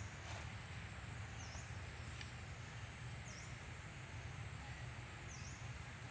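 Steady background rumble and hiss, with a bird repeating a short, high, dipping chirp about every two seconds.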